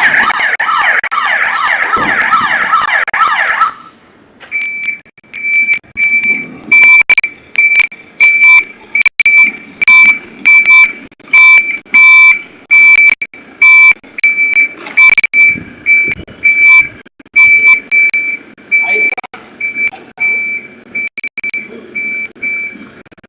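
Electronic siren fitted to a Toyota Hilux double cab: a fast warbling yelp that stops about four seconds in, then a single high beep repeated about twice a second, with scattered sharp clicks among the beeps.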